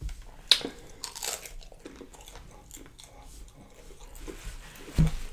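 Close-up chewing and crunching of crisp fried catfish fillet, with a sharp crunchy bite about half a second in and smaller crunches after it. A dull thump comes near the end.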